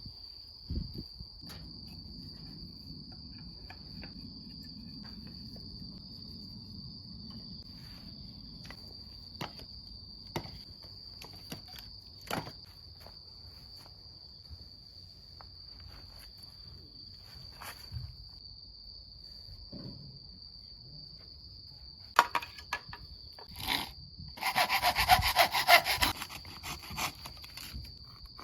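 Steady high insect trill with scattered small clicks and knocks. About 24 seconds in, loud rhythmic rasping strokes begin and carry on to the end.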